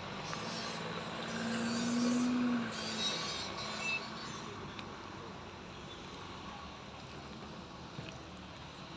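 Motor vehicle running, with a steady low hum that is loudest about two seconds in, then settling to a quieter steady background noise.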